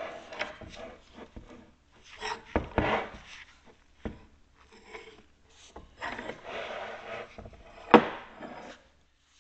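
Old Dake No.001 cast-iron arbor press being handled and shifted around on a wooden bench: several bursts of scraping and rubbing with a few clicks, and a sharp knock near the end.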